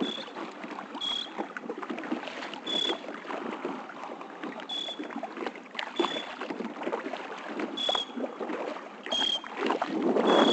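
Kayak paddling: water splashing and sloshing around the paddle and hull, with a short high chirp recurring about eight times, every one to two seconds.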